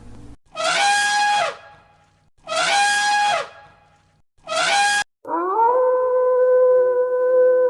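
Three short animal calls about a second apart, each dropping in pitch at its end, then a long, steady, howl-like call held on one pitch.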